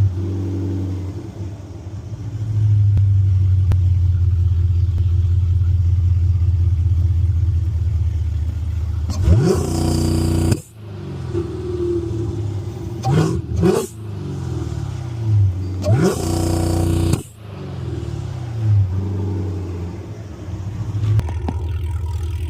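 Chevrolet Camaro ZL1's supercharged V8 through an aftermarket exhaust, cruising and then revved hard twice. About nine and sixteen seconds in, the pitch climbs steeply to a loud peak, and each time the sound cuts off abruptly a second or so later.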